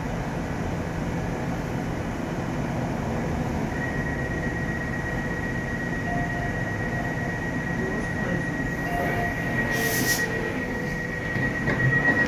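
Alstom X-Trapolis electric railcar running along the track, heard from on board: a steady rumble of wheels on rail, with a thin, steady high tone joining about four seconds in. A brief hiss comes about ten seconds in, and the noise swells near the end.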